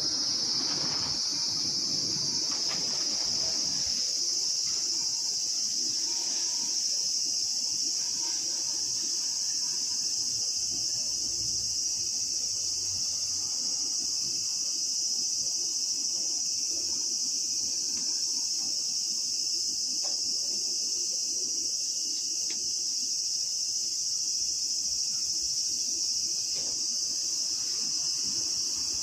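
Steady, high-pitched insect chorus that runs without a break, with faint low rustle beneath.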